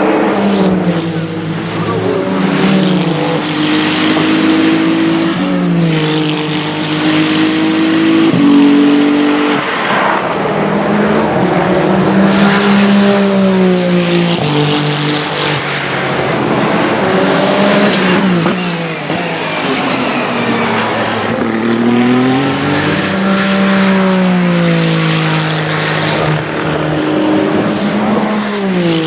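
Ferrari 499P hypercar's twin-turbo V6 engine running at racing speed, its pitch rising and dropping in steps through repeated gear changes as the car passes.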